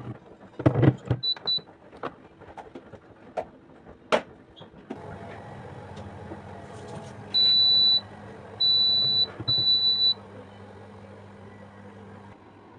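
A few seconds of light knocks and clicks from objects being handled, then a household appliance starts up with a steady low hum. Three loud, high electronic beeps sound about halfway through, and the hum stops shortly before the end.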